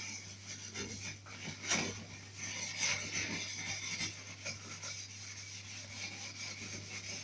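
A small piece of steel wool rubbing and scrubbing around a gas stove burner, a rasping scratch in uneven strokes, working off dried-on food residue.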